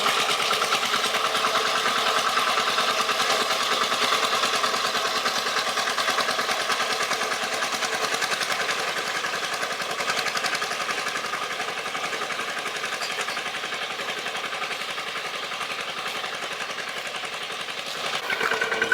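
A small engine or motor running steadily with a fast, rattly buzz. It eases slightly in level, then a louder change starts just before the end.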